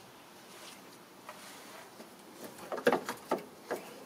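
A few short, sharp clicks and knocks, bunched together in the second half, as engine parts are handled and disconnected during intake manifold removal.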